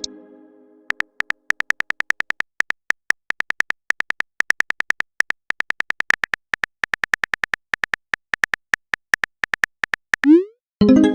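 Phone-keyboard typing sound effect: a long, fast, uneven run of short clicks. About ten seconds in, a short rising swoop and a ringing chime, a message-sent notification sound.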